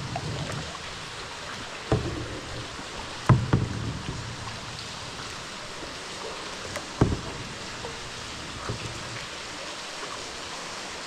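Steady splashing rush of spring water pouring from the mine roof into the flooded passage, with three sharp hollow knocks of a paddle striking a kayak hull, about 2, 3 and 7 seconds in.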